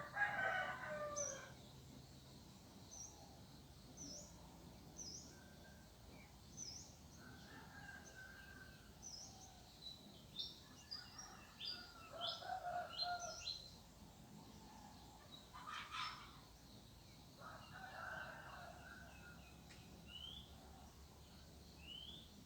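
Rooster crowing, loudest in the first second or so, with fainter calls from other fowl later on. Small birds chirp throughout in short, high calls.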